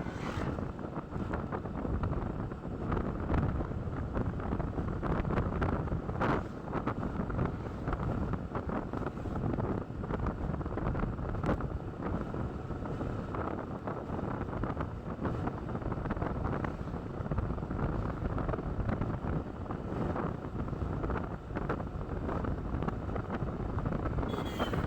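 Wind buffeting the microphone of a moving motorcycle: a steady, gusting rush of wind with ride noise underneath.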